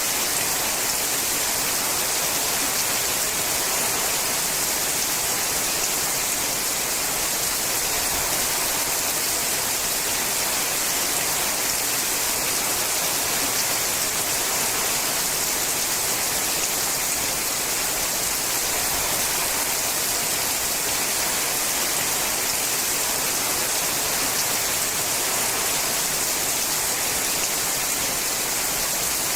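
Rain falling steadily on a sheet-metal roof: an even hiss of drops with fine patter.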